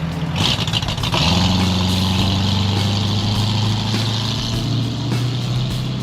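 A car engine running as a car drives off, getting louder about a second in and then holding a steady, low note.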